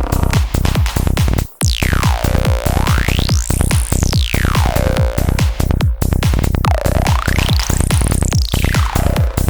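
Psytrance music: a rapid pulsing kick and bass, over which an analog modular synth effect swoops smoothly down and back up in pitch, twice, in long slow arcs. The beat drops out briefly about one and a half seconds in.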